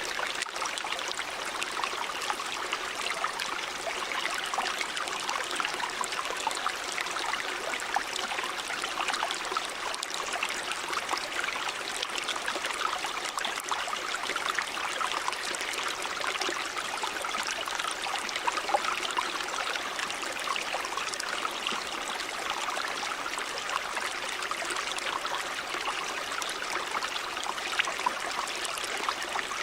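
Shallow river or stream running steadily, with a constant rush and fine bubbling and splashing of water over stones.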